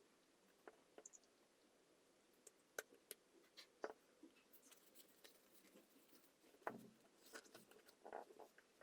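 Faint, scattered clicks and light taps at irregular intervals, a little stronger near the end.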